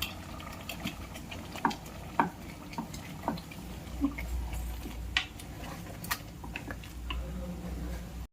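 Curry gravy boiling in a metal pressure cooker pot, with scattered sharp taps and clicks of a spoon against the metal as the ground paste is added and stirred in.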